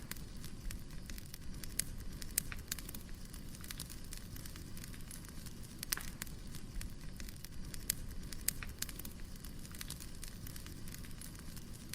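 Firewood burning: a steady low rumble of flames with irregular sharp crackles and pops.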